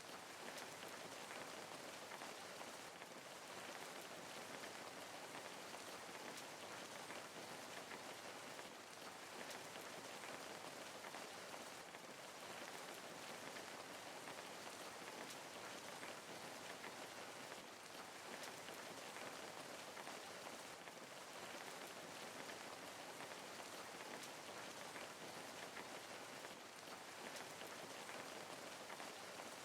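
Steady rain falling, a soft even hiss of many drops with no breaks.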